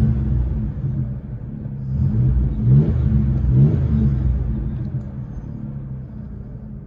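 2006 Ford Ranger's 3.0L V6 on straight pipes running through five catalytic converters, blipped twice in quick succession and then settling back down. The converters keep it quiet for a straight pipe, so it sounds as if it had a muffler.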